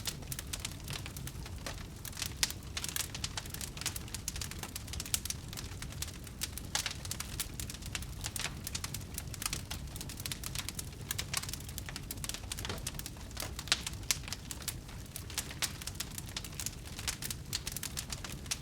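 Wood fire crackling: a dense, irregular run of pops and snaps over a steady low rumble, with a few sharper snaps standing out.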